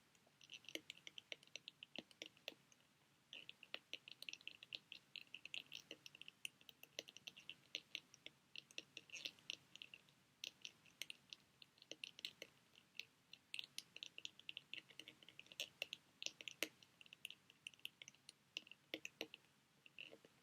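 Fingers handling sheet mask packets: a dense, irregular run of quick soft crinkles and clicks, close to the microphone.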